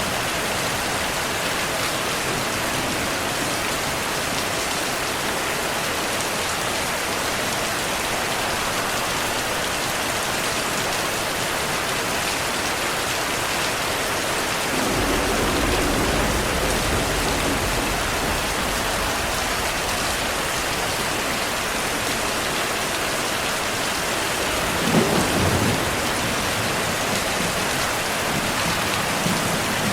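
Steady heavy rain with thunder: a low rumble comes in about halfway through and rolls on for several seconds, and a sharper, louder thunderclap comes about five seconds before the end.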